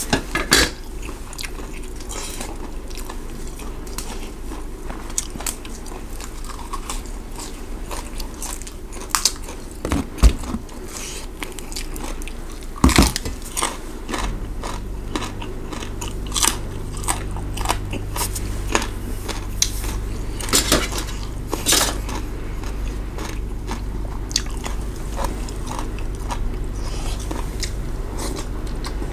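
Close-up chewing and crunching of food: rice noodles and fresh raw vegetables being bitten and chewed, with frequent sharp mouth smacks and clicks.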